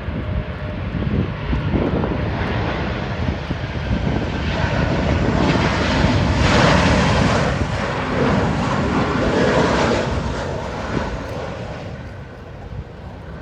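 Airliner flying low on its landing approach. Its engine noise swells to a peak about halfway through, then fades away toward the end.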